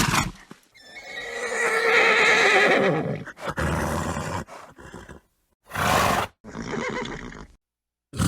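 Horse whinnying in one long, wavering call, followed by several shorter, noisier bursts of snorting.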